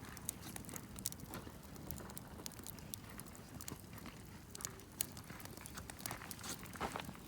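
Wood campfire crackling, with irregular sharp pops and snaps over a low rumble of burning.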